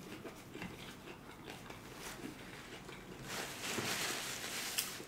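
Close-miked chewing of a taco mouthful, with faint wet mouth clicks. A little over three seconds in, a paper napkin starts rustling and crinkling as hands are wiped.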